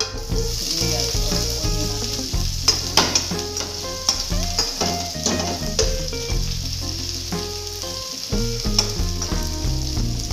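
Chopped food tipped into hot oil in a wok, sizzling from the moment it lands, with a metal spatula stirring and clicking against the pan now and then.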